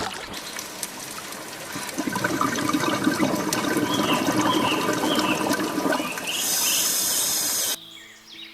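Rushing, splashing water with a run of faint, short high chirps in the middle; it cuts off sharply near the end.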